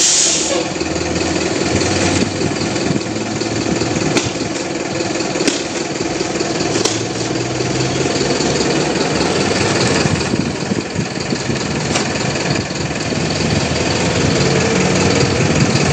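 Vehicle engine running steadily, with a few sharp clicks now and then.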